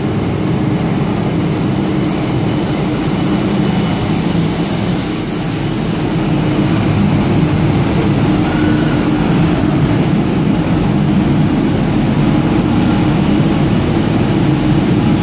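Regional train pulling in alongside the platform and slowing, with loud, steady running noise over a low hum. A high hiss rises from about a second in and stops about six seconds in, followed by a thin high whine.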